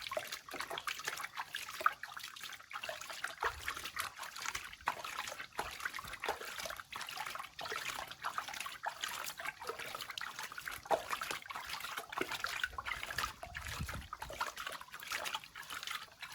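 Water trickling and splashing in quick, irregular spatters as a kitten is washed by hand.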